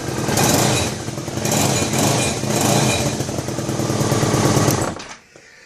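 1999 BMW K1200RS inline-four engine running with an exhaust leak at the manifold, where the studs are loose or missing, its sound swelling and easing about once a second as the throttle is worked. It is shut off about five seconds in. Somewhere in it is a little rattle that the owner has yet to trace.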